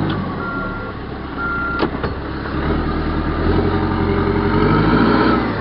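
John Deere backhoe's diesel engine running while its reverse alarm beeps about once a second. The beeping stops about two seconds in, just after a sharp click, and the engine then gets louder as the machine moves off.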